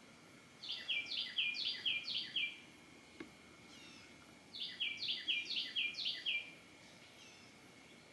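A songbird singing two phrases of about two seconds each, separated by a pause of about two seconds. Each phrase is a quick run of repeated falling notes.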